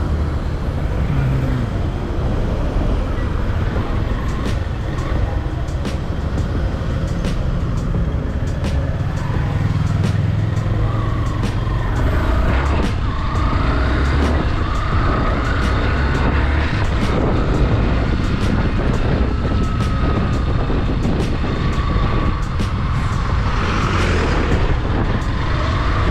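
Motorcycle riding through traffic: a steady low rumble of wind on the microphone over the bike's engine, with other vehicles passing.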